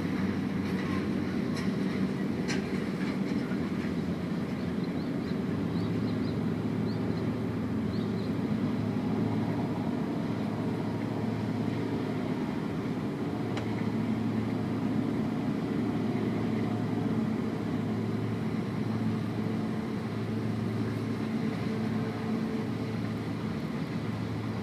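A steady, low mechanical rumble with a constant hum, like a large engine or vehicle running, and a few faint ticks near the start.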